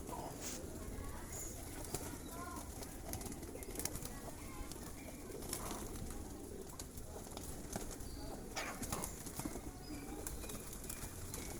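Flock of domestic pigeons cooing while being fed, with wings flapping now and then and scattered sharp clicks.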